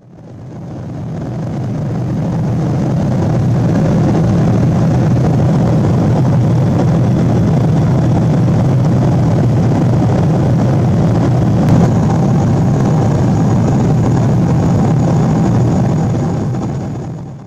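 Steady rumble and rush of a Boeing 777-200's engines and airflow heard inside the passenger cabin in flight, fading in at the start and out at the end. A brief click comes about two-thirds of the way through.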